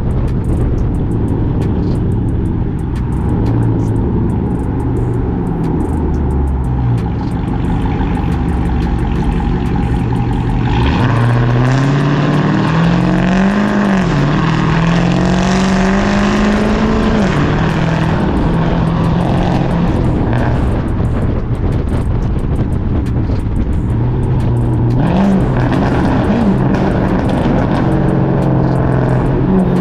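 Exhaust of a Chrysler 300C's Hemi V8, cammed and straight-piped with no catalytic converters, running steadily at low revs. About eleven seconds in it accelerates, its pitch climbing, dipping briefly and climbing again before it settles back to a steady drone. A short rev comes near the end.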